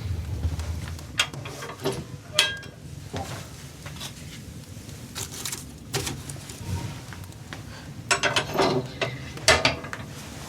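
Objects being handled: a scatter of sharp clicks, knocks and clatter, bunched about a second in and again near the end.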